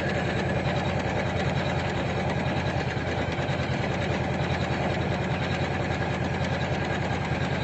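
Usha Janome Memory Craft computerized embroidery machine running steadily, its needle stitching out an embroidery design at a rapid, even rate.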